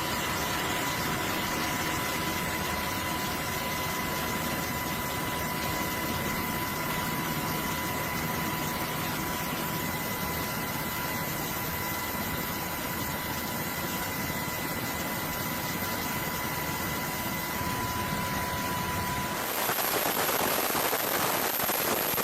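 Steady engine-like machine noise with a constant high whine. About nineteen seconds in, the whine stops and the sound turns into a brighter, hissier rush.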